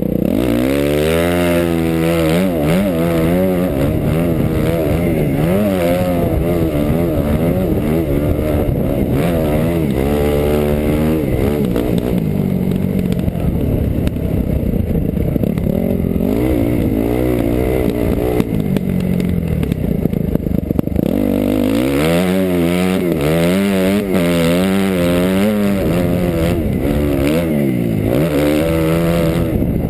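2008 Suzuki RM-Z250 four-stroke single-cylinder motocross engine revving hard, its pitch climbing and dropping again and again as the throttle is opened and closed through the gears, with a steadier stretch about halfway through.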